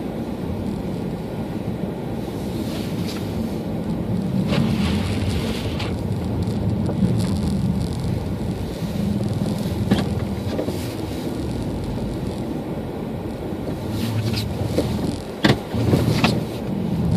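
Car driving on snowy roads: a steady low engine and road rumble, with a few sharp clicks or knocks, most of them near the end.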